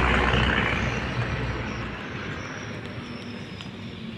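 A motor vehicle going past close by, with a low rumble that drops away about halfway through as its noise fades.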